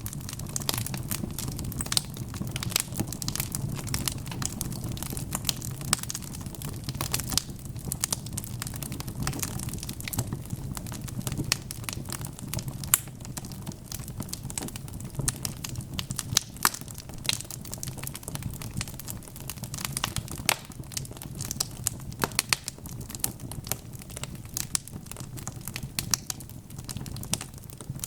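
Wood fire crackling: dense, irregular sharp pops and snaps over a steady low rumble of burning.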